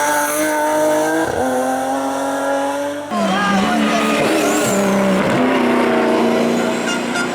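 Race car engines at full throttle on a hillclimb. The revs climb, drop sharply about a second in at a gear change, and climb again. About three seconds in the sound cuts to another car, revving up through its gears.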